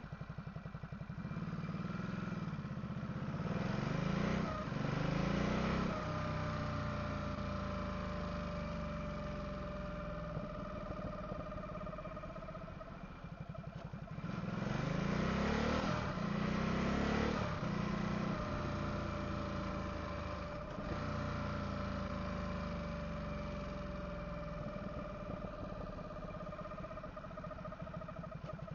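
Ducati SuperSport 939's L-twin accelerating hard twice with gear changes. Between the pulls, while the bike rolls in gear with the clutch engaged, a steady high whine rides over the engine. The owner suspects a dry clutch seal ring.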